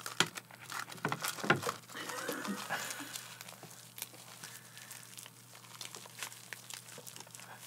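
A person biting into and chewing a crisp nori-wrapped roll with a whole green onion inside: dry seaweed crackling and crunching in scattered small snaps, with a short muffled vocal sound through a full mouth about two seconds in.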